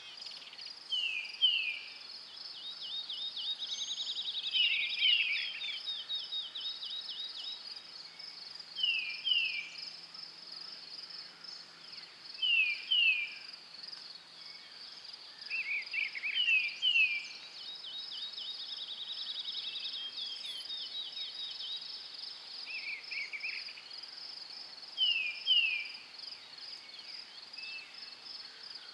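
Forest birds singing over a steady, high insect chorus: a bird repeats a short phrase of two quick falling notes every few seconds, and a rapid trill comes in twice.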